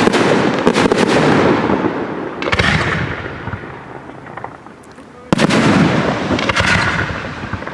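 Aerial fireworks shells bursting with loud bangs and long rolling echoes. A cluster of bursts opens, another follows a couple of seconds in and fades, and a single loud burst comes a little after halfway and dies away slowly, with faint crackling between.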